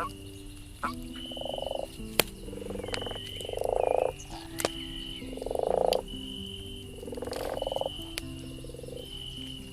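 A campfire crackling with sharp pops, while a frog croaks in a series of about six pulsed calls, the loudest two near the middle.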